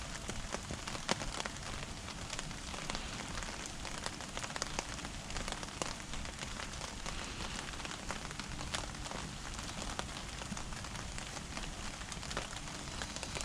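Small wood fire burning with frequent irregular crackles and pops over a steady hiss.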